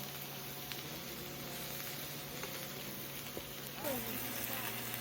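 Steady hissing noise with a low hum under it, a few faint clicks, and faint voices about four seconds in.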